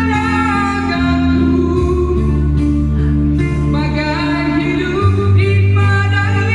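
A song sung with musical accompaniment: a voice holding and bending sung notes over steady low bass notes.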